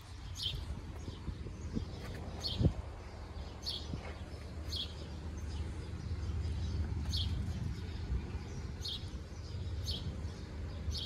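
A bird giving short, high, downward chirps every second or two, over a low steady rumble.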